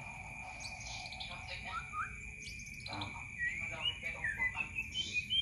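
Several birds chirping and twittering in short rising and falling calls, over a steady high whine.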